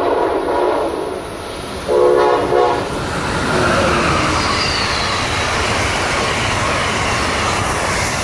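Amtrak ACS-64 electric locomotive's horn: a blast that ends about a second in, then a second one-second blast about two seconds in. After that the locomotive and its passenger cars pass close by with a loud, steady rush.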